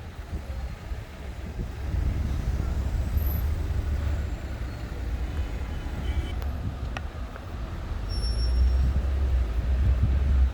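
Steady low rumble of street traffic with heavy vehicles passing, swelling near the end, and a couple of brief faint high squeaks.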